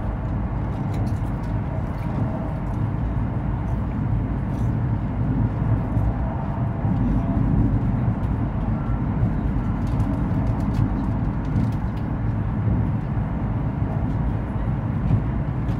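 Cabin running noise of a high-speed train travelling at speed: a steady low rumble with a few faint ticks here and there.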